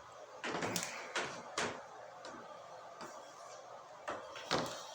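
A few short knocks and clunks of things being handled: several in the first second and a half, then two more about four seconds in.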